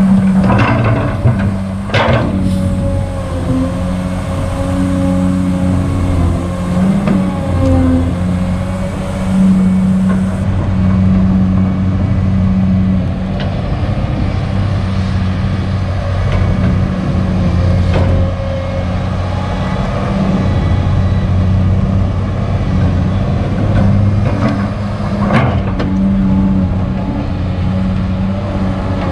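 Kobelco SK200 hydraulic excavator's diesel engine running under working load, its note swelling and easing as the machine works. A few sharp knocks come through it, about two seconds in, in the middle and near the end.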